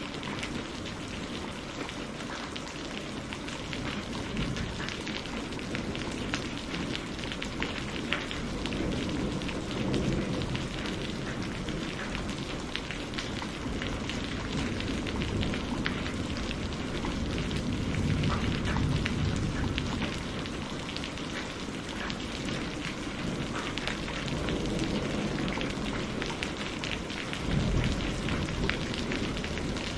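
Steady rain with pattering drops, under low thunder rumbles that swell about ten seconds in, again around eighteen to twenty seconds, and near the end.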